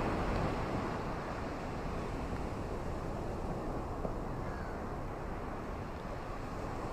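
Ocean surf washing on a beach: a steady low rushing, a little louder at the start and easing off slowly.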